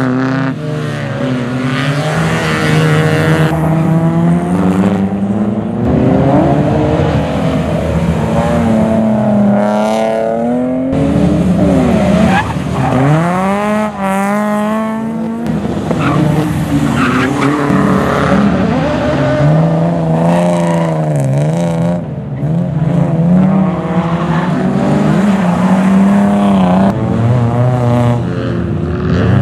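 Rally car engine revving hard, its pitch climbing and falling again and again through gear changes and braking.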